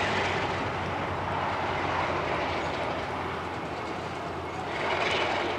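Freight cars rolling slowly over the rails during switching, with steady wheel and rail noise and a diesel locomotive running underneath.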